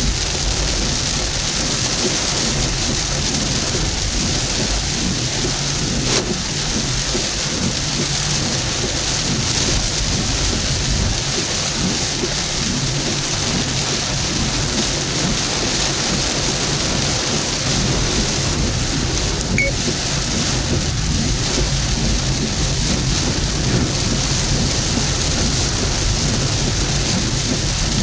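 Heavy rain falling on a moving car: a steady, even rush of rain with a low hum beneath it.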